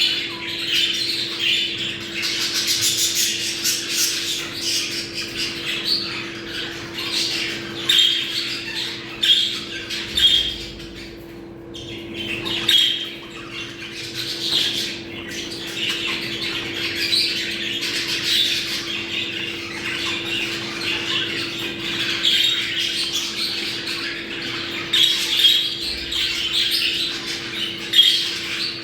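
A group of budgerigars chattering and warbling continuously in rapid, scratchy squawks and chirps: the mating chatter of budgies in breeding condition. The chatter thins briefly about a third of the way in, and a steady low hum runs underneath.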